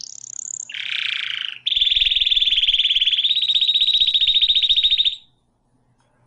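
Domestic canary singing: a short high phrase, then a lower buzzy phrase, then a long rapid trill that steps up slightly in pitch partway through and stops about five seconds in.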